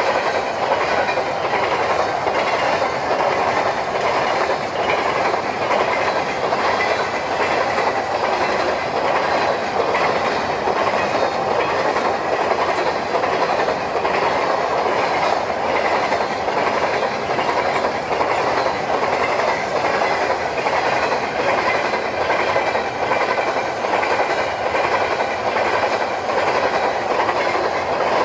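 Empty covered hopper cars of a unit grain train rolling past: a steady noise of steel wheels on rail, with a faint, regularly repeating click.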